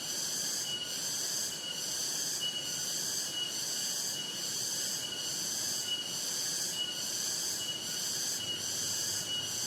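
A loud, dense chorus of night insects, cicadas or katydids, with a shrill buzz that pulses about twice a second and a thinner high chirp repeating through it.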